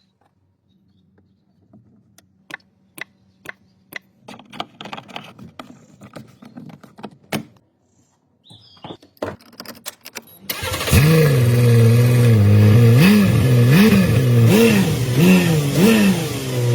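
Light clicks and knocks, then about ten seconds in a Porsche engine starts and runs loudly, its pitch rising and falling in a run of short throttle blips.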